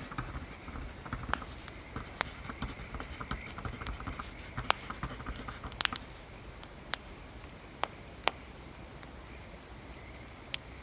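Wood fire crackling: sharp, irregular pops over a steady hiss and low rumble. Through roughly the first half, pen or pencil scratching and tapping on paper.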